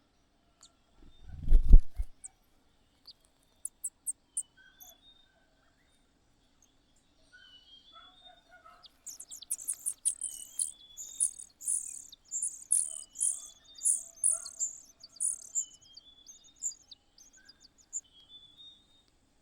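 Small birds chirping: a run of high, thin cheeps, several a second, from about nine to sixteen seconds in. A dull thump sounds near the start.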